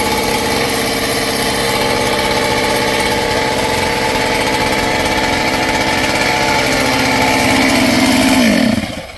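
Kit-built clone chainsaw's two-stroke engine running steadily at speed; near the end its pitch falls and it winds down to a stop.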